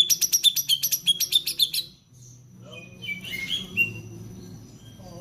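Greater green leafbird (cucak ijo) singing: a loud, rapid run of sharp chirps, about six a second, lasting some two seconds, then after a short pause a few varied whistled notes.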